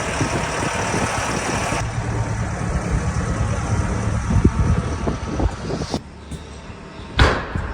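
Steady low mechanical rumble, like a vehicle or a loaded cart rolling, which changes abruptly about two and six seconds in, with one sharp knock near the end.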